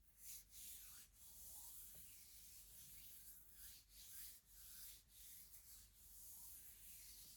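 Close-miked hands rubbing and scratching across a surface in a series of soft, uneven strokes, roughly one or two a second.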